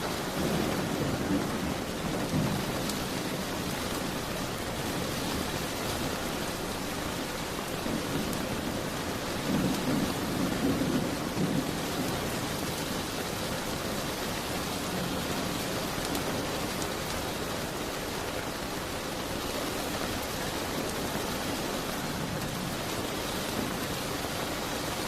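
Steady rain, with low rumbles swelling near the start and again about ten seconds in.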